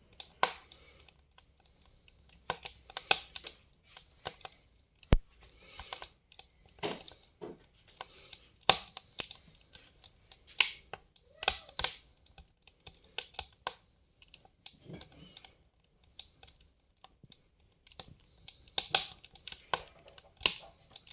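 Wood fire crackling: burning logs giving off irregular sharp pops and snaps in clusters, with quieter gaps between, and one sharp crack about five seconds in.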